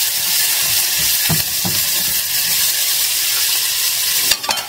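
Sliced bell peppers and green onions sizzling in a little hot oil in a frying pan, stirred with a spatula that scrapes and knocks against the pan a couple of times. The sizzle dips briefly near the end with a few clicks.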